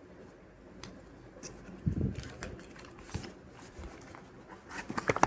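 Handling noises: scattered clicks, taps and rustling, with a dull thud about two seconds in and a quick cluster of clicks near the end.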